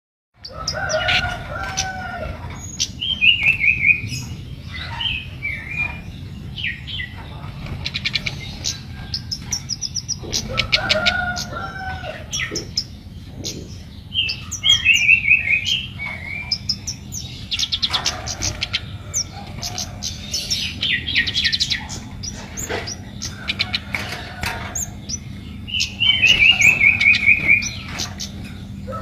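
Baret merah songbird singing hard, a challenge song aimed at a rival. Phrases of quick descending whistled notes come back roughly every twelve seconds, with rapid high trills between them and lower two-part calls now and then, over a steady low hum.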